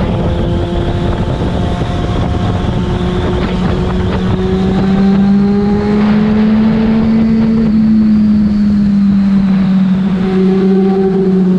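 Yamaha FZ6 inline-four engine running through a Leovince aftermarket exhaust while riding, its steady note rising slowly for about seven seconds and then easing off slightly, over a low rumble of wind.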